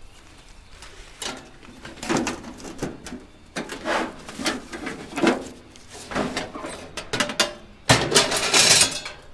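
Kerbside scrap being handled and moved about: a series of irregular knocks and rattles, with a longer, louder clatter about eight seconds in.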